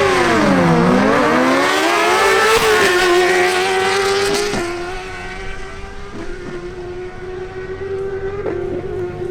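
Suzuki GSX-R1000 inline-four sportbikes launching down a drag strip at full throttle. The engine pitch dips about a second in, climbs hard, then holds high and steady while fading as the bikes pull away.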